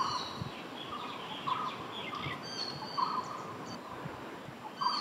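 Forest birdsong: one bird repeats a short low note about every one and a half seconds, with higher chirps and whistles from other birds between them.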